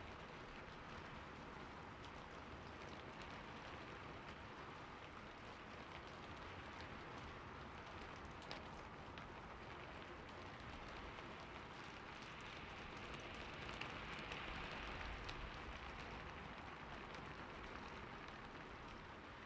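Rain falling on a roof: a steady hiss with scattered sharp drop ticks. It swells a little about two-thirds of the way through.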